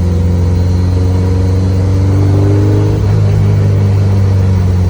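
Built Subaru Impreza flat-four engine heard from inside the stripped cabin, rising in pitch under acceleration for about three seconds. It then breaks off and settles to a steady drone, a stumble that the passenger hears as a miss or a little breakup.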